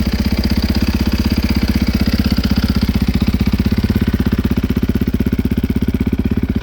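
2024 Husqvarna FE501S single-cylinder four-stroke dirt bike engine idling steadily with an even, rapid beat, shortly after a cold start in below-freezing air.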